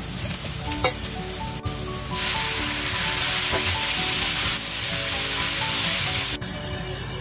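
Carrot slices sizzling in hot oil in a wok, with a spatula tapping and scraping the pan. About two seconds in, the sizzle grows much louder as raw chicken breast goes in and is stirred, then drops back suddenly near the end.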